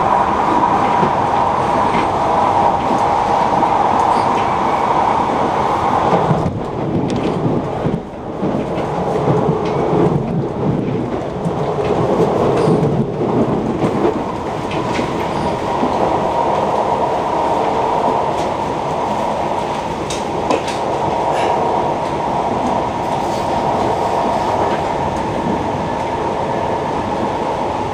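Moving passenger train heard from inside the carriage: steady rumble of wheels on track, with a brief dip in the noise about eight seconds in.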